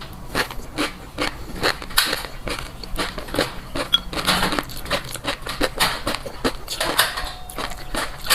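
A person chewing crunchy food close to the microphone: dense, irregular crunches and clicks, several a second.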